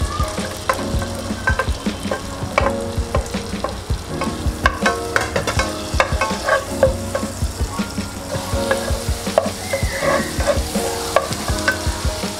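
Chopped onion, garlic and capsicum sizzling as they fry in melted butter in a nonstick pot. A wooden spatula stirs them, knocking and scraping against the pan many times.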